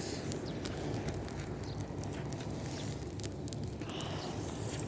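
Bonfire of dry hay burning, with a dense run of small sharp crackles over a low steady rumble.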